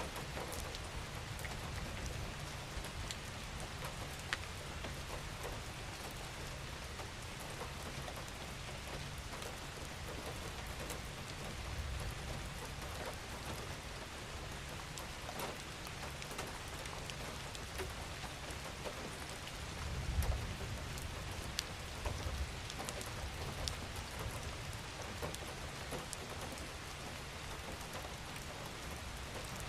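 Steady rain falling on a surface, with individual drops ticking sharply here and there. A low rumble swells briefly about twenty seconds in.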